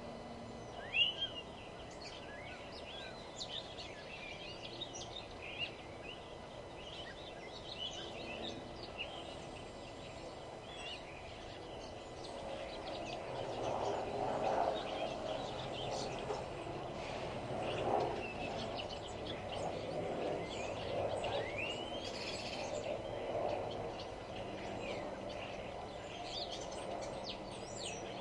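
Outdoor birdsong: several small birds chirping and trilling in short, high calls over a steady background hum. Through the middle stretch a lower, rougher sound swells up and fades again beneath the chirping.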